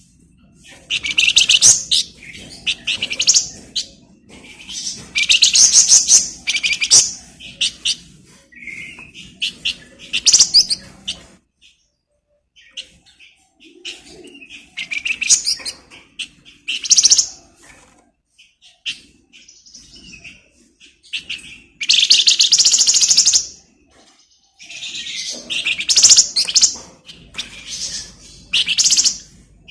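A caged flamboyan songbird in full song, giving bursts of rapid, high chirping trills a few seconds long with short pauses between them.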